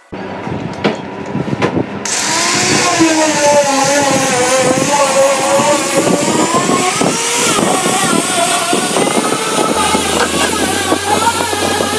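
A handheld power tool's motor running hard on wood, starting up about two seconds in, its pitch wavering as the load changes.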